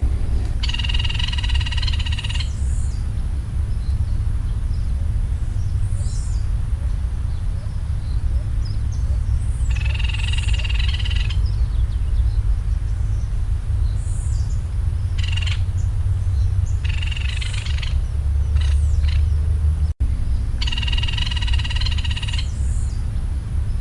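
Red-crowned woodpecker calling: about five calls, each about a second and a half long, spaced several seconds apart, over a steady low rumble.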